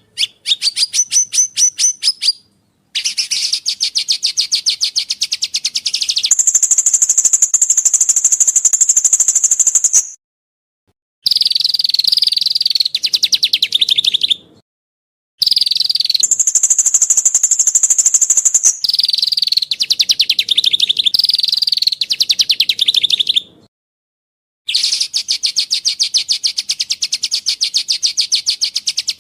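Songbird song from a bird-song training track: fast trills and rattling strings of rapid notes in phrases a few seconds long, some pitched lower and some higher and buzzier, separated by short, dead-silent gaps.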